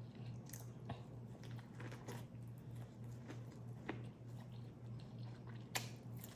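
Quiet chewing and eating of crawfish boil, with scattered small clicks and crunches, a sharper one just before the end, over a steady low hum.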